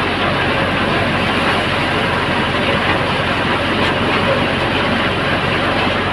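Thresher driven by an Al-Ghazi 65 hp tractor, running steadily: a loud, continuous mechanical din from the tractor engine and the threshing machinery.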